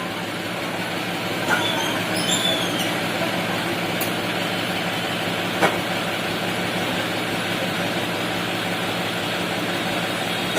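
Tractor engine running steadily, with two sharp knocks, one about a second and a half in and another near the middle.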